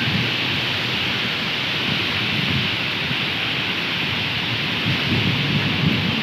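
Heavy tropical rain pouring steadily, a dense even hiss, with irregular low rumbling underneath.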